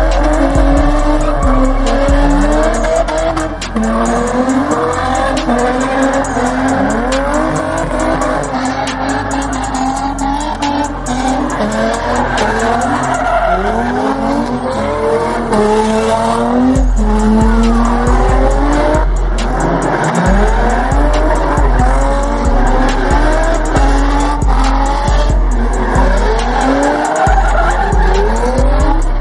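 Cars doing burnouts: engines revving up and down over screeching, spinning tires, with bass-heavy music playing throughout.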